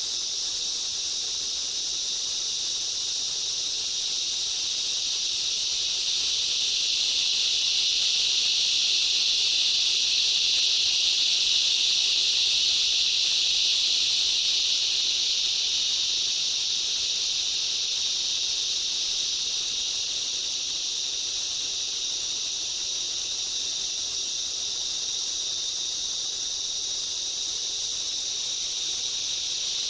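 Dense, continuous high-pitched insect chorus of a rainforest, a steady shrill drone that swells louder in the middle and eases off again.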